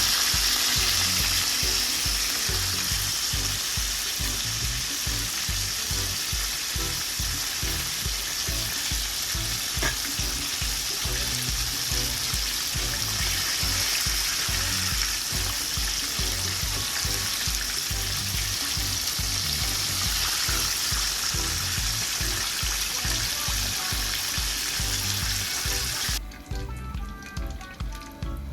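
Chicken pieces deep-frying in hot oil: a loud, steady sizzle that cuts off suddenly near the end, with background music and a steady beat underneath.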